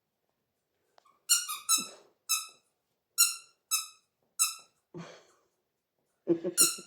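Squeaky toy squeezed repeatedly by a German shepherd puppy: about seven short squeaks, all at the same pitch, coming irregularly, with a couple of softer rustling sounds between them near the end.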